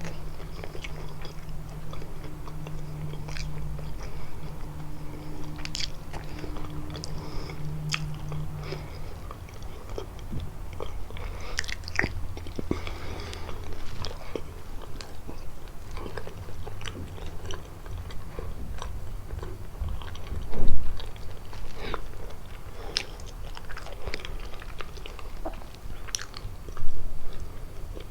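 Close-miked biting and chewing of kalaj, the soft pastry filled with walnuts and cheese, with scattered sharp mouth clicks and smacks. Two loud low thumps stand out, one about two-thirds of the way through and one near the end.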